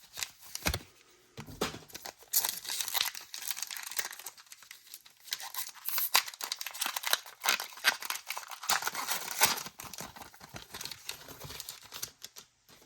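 Foil booster pack of Pokémon cards being torn open, with the wrapper crinkling and tearing in a long run of crackles.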